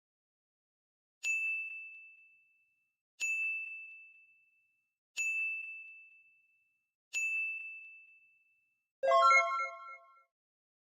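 Four identical bell-like dings about two seconds apart, each ringing out and fading, followed near the end by a louder chime of several notes at once.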